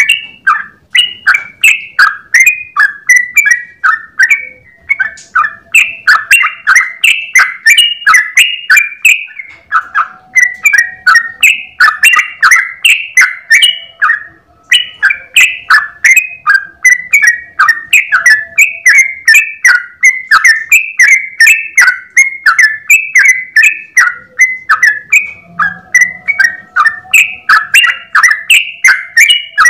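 Yellow-vented bulbul (trucukan) singing a long, fast, unbroken run of short chattering notes, several a second, with only a brief pause about halfway through.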